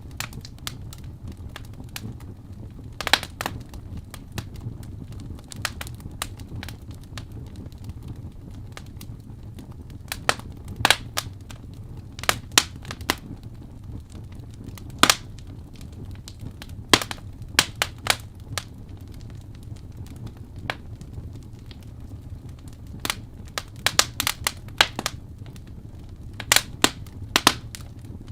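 Wood fire burning in a fireplace, crackling: irregular sharp pops and snaps, some in quick clusters, over a steady low rumble of the flames.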